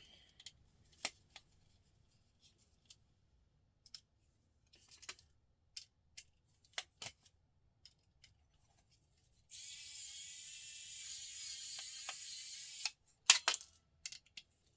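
Scattered small clicks and taps of a screwdriver and loose laptop parts being handled while screws are taken out. About ten seconds in there is a steady hiss lasting about three seconds, followed by a cluster of sharper, louder clicks.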